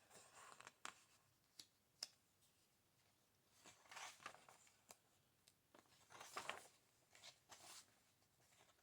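Faint rustling of book pages being turned, with a few light taps and soft paper swishes spread through.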